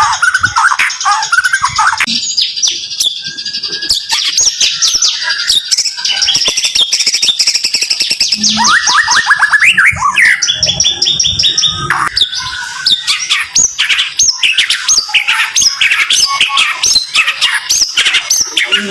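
White-rumped shama singing its 'tembakan' song: fast runs of sharp, high repeated notes fired in quick succession, with a few whistled glides between the runs.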